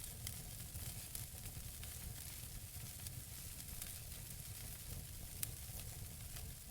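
Wood fire burning in a fireplace: burning logs crackling with frequent small pops over a low steady rumble, with one sharper pop about five and a half seconds in.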